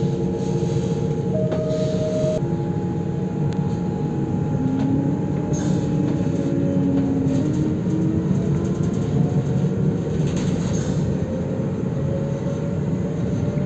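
Train running with a steady rumble and several whining tones over it, one of them rising gradually in pitch near the end.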